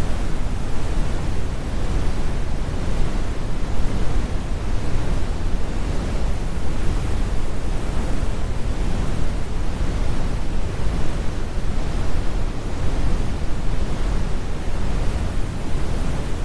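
Synthetic brown noise: a steady, deep rumble with its energy in the low end and the highs rolled off.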